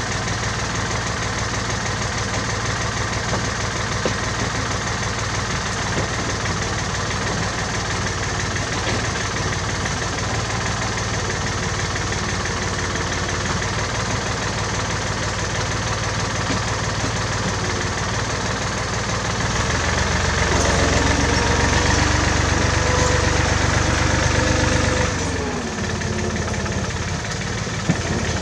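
1967 David Brown tractor engine running steadily. About two-thirds of the way in it grows louder for about five seconds with a rising whine, then drops back to its steady running.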